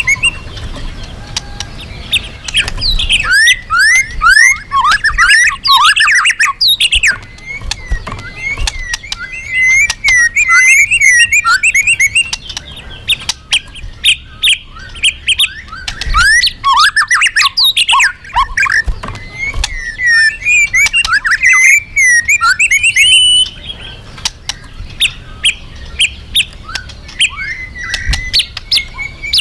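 A murai batu (white-rumped shama) singing loudly and almost without pause: a fast, varied run of rich whistles, quick falling sweeps and sharp chips, the kind of 'gacor' song used as a lure to set other birds singing. The song grows softer and choppier after about 23 seconds.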